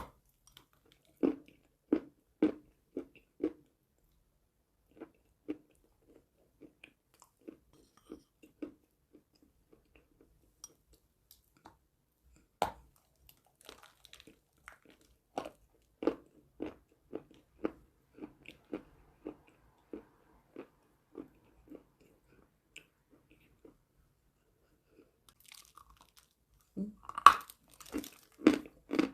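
Close-up chewing of crunchy eating chalk, in separate bites and chews about twice a second. There is one sharp crunch about halfway through, and louder crunching bites near the end.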